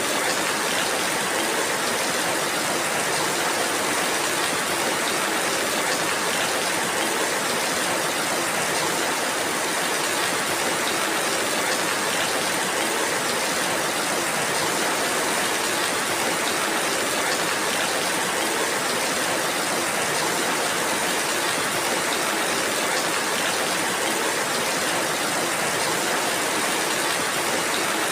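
Steady, even rainfall, a dense hiss of rain with no single drops standing out.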